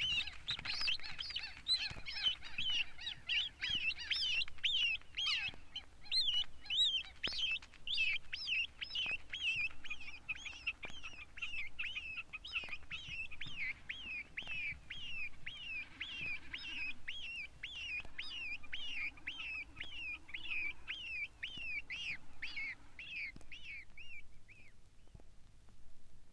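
Broad-billed sandpiper calling: a long run of short, quick-repeating notes, crowded at first and then about two a second, fading out near the end.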